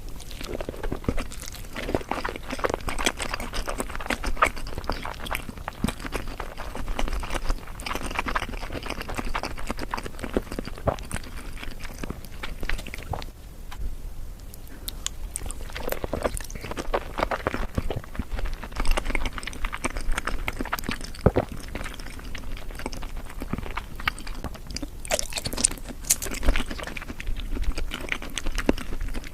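Close-miked eating sounds of sushi and sashimi being chewed: a steady run of irregular mouth clicks, smacks and bites, with a brief lull about halfway through.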